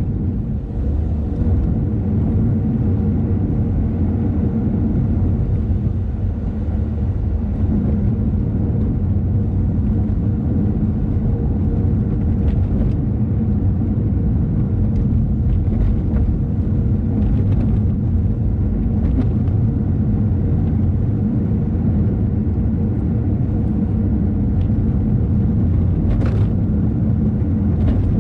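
Car driving along a road: a steady low rumble of engine and tyres, with a faint steady hum over it and a few light ticks.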